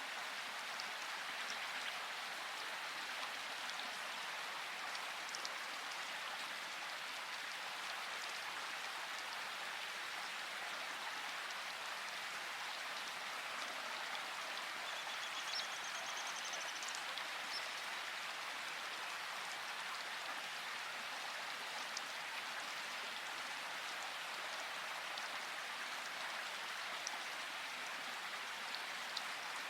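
Steady rain falling, an even hiss with scattered sharper drop ticks and no thunder. A brief faint high squeak sounds about halfway through.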